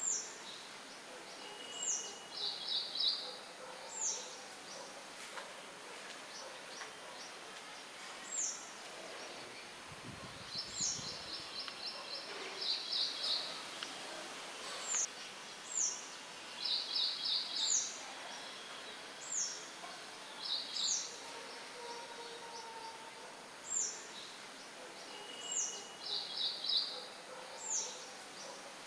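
Several songbirds chirping over a steady hiss of light wind. Short, high, falling chirps repeat every second or two, mixed with quick trills and a few lower whistled notes, and a brief low rumble comes about ten seconds in.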